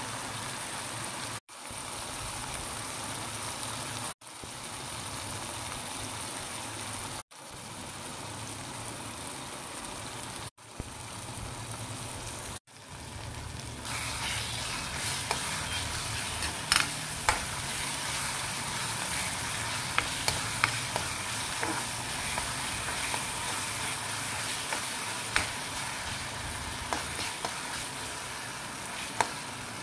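Onions and tomatoes sizzling in a kadai while a spatula stirs them, with sharp scrapes and clicks of the spatula against the pan from about halfway on. The hiss cuts out briefly several times in the first half.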